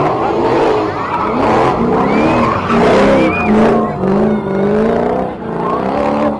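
Car engine revving up and down, with two short tyre squeals about two and three seconds in.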